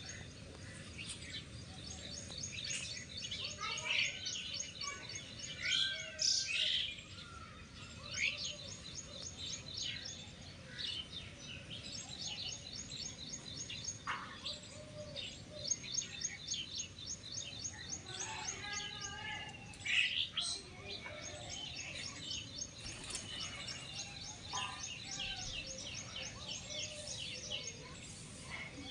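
Several birds chirping, with fast high-pitched trills of repeated notes and scattered shorter calls.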